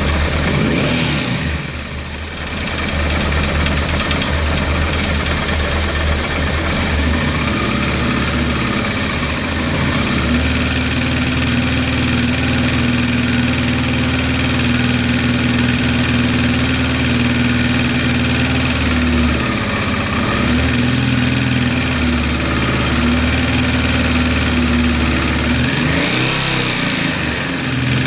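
Honda Transalp motorcycle engine running at a steady idle with a metallic noise from the engine, the fault the owner is showing; the revs dip briefly about two seconds in and rise near the end.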